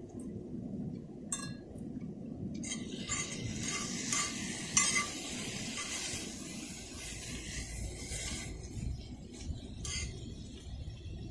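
Camp cooking: metal utensils clinking and scraping against a pan, with a hiss like food sizzling from about three seconds in until past halfway.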